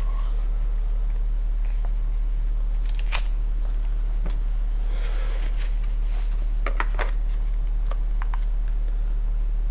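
Steady low electrical hum with a few sharp plastic clicks and handling rustles, as the repaired cordless drill battery pack is handled and seated in its charger.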